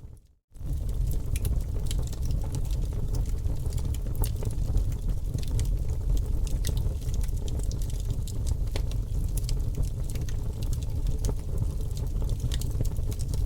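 Wood fire crackling in a fireplace: a steady low rumble with frequent sharp pops and snaps. The sound cuts out for a split second just after the start.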